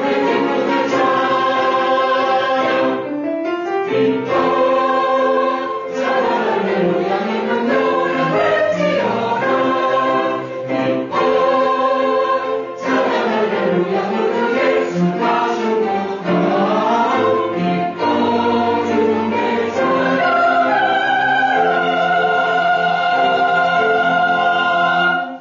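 Church choir singing a Christmas anthem in full harmony, closing on a long held final chord that cuts off sharply.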